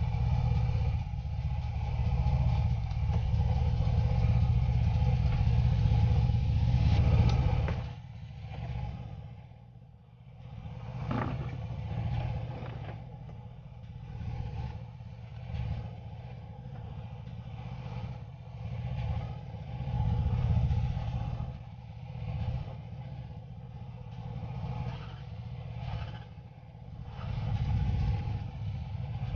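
Car engine running: loud for about the first eight seconds, then dropping to a lower level that rises and falls every couple of seconds.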